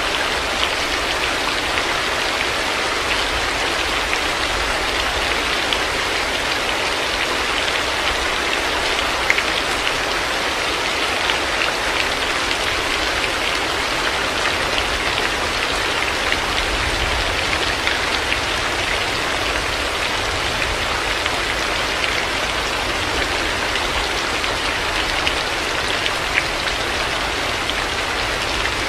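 Heavy rain falling steadily, with scattered individual drops ticking close by.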